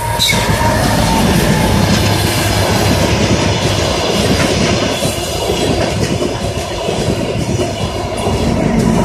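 ДР1А diesel multiple unit passing close by at speed, a loud steady rumble with its wheels clattering over the rail joints.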